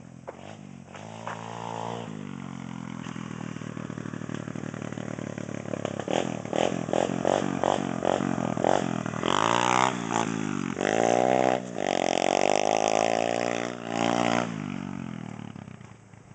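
Demon X 110cc pit bike's single-cylinder four-stroke engine revving: one rev up early on the way to a steady run, a quick string of short throttle blips about six seconds in, then several long, loud high revs near the end.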